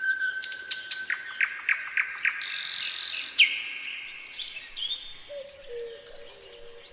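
Nightingale singing: a held whistle, then a fast run of repeated notes that builds into a loud harsh rasping phrase, followed by quieter twittering.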